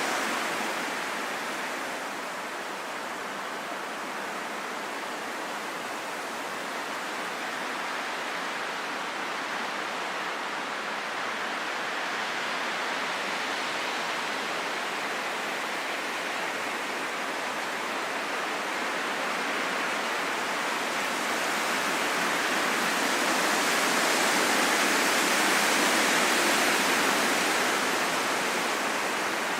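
Wind blowing as a steady hiss that swells slowly, strongest a little over three-quarters of the way through, then eases off near the end.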